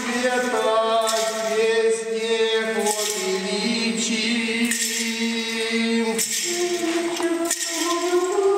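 Orthodox church chant sung during a service, in slow, long held notes that change pitch every few seconds.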